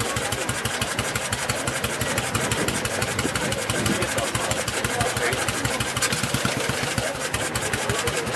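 Vintage motorcycle engine running at idle, firing in a steady, rapid, even beat.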